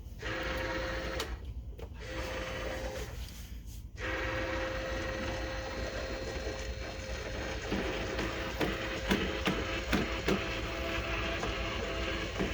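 Nature's Miracle Multi-Cat self-cleaning litter box running its automatic sweep cycle: a steady electric motor hum that drops out twice in the first four seconds. Later on, a scatter of clicks and knocks as the rake works through and levels the litter.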